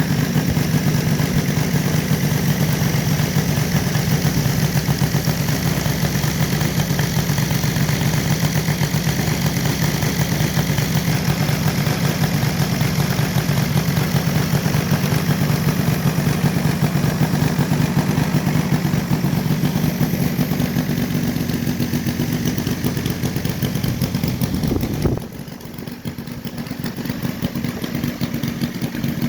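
Radio-controlled P-47 model airplane's combustion engine running steadily with a fast, buzzing rhythm; near the end its level drops suddenly, then slowly builds again.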